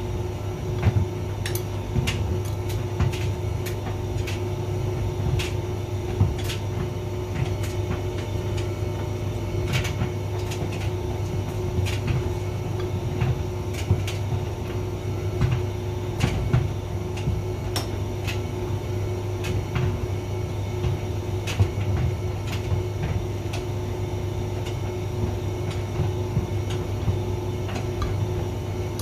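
Hotpoint vented tumble dryer running: a steady motor and drum hum with a constant tone above it, and irregular sharp clicks and knocks as the load tumbles in the drum.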